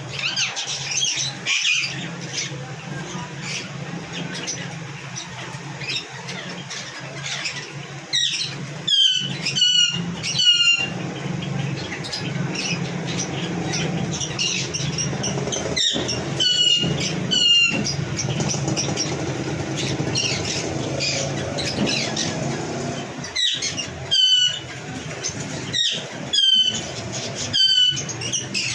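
Red lories screeching in bursts of several sharp, high calls at a time, three or four bursts over the stretch, with a steady low hum underneath.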